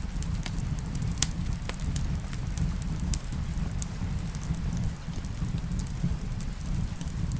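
Wood fire crackling in a fireplace, with irregular sharp pops (the loudest about a second in) over a steady low rumble, mixed with steady rain.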